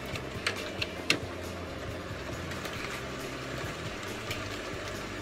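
A Jeep's engine idling steadily with a low, even hum, ready to jump-start a truck with a dead battery. A few light clicks sound in the first second or so.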